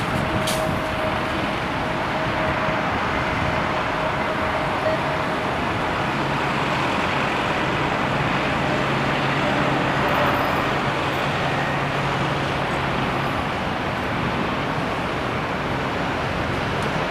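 Steady roar of aircraft engines at the airport mixed with wind on the microphone, with a faint whine in the first few seconds and a low hum through the middle.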